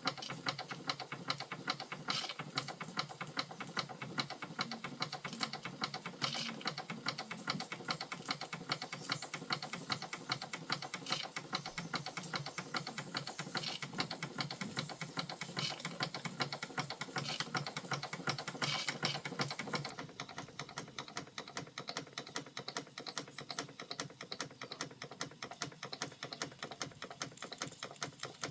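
Vintage Krick model marine steam engine running, its moving parts making a fast, even mechanical clicking. About two-thirds of the way through the clicking becomes quieter and duller but keeps its pace.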